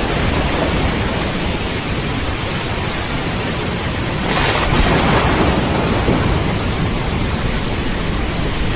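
Steady heavy rain with a low rolling thunder rumble underneath, swelling to a louder crack of thunder about four and a half seconds in.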